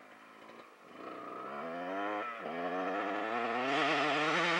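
Dirt bike engine accelerating: its pitch rises, drops briefly about two seconds in as it shifts gear, then climbs again and grows louder near the end.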